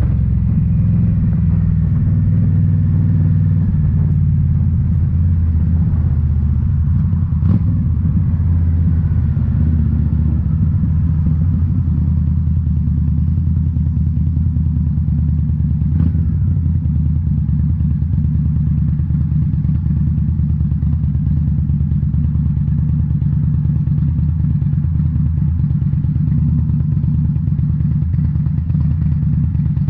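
Indian Scout Bobber's 1133 cc V-twin engine running through Rinehart slip-on mufflers, with a deep, steady note. Its pitch drops in the first few seconds and then holds steady, with two sharp clicks at about 7 and 16 seconds in.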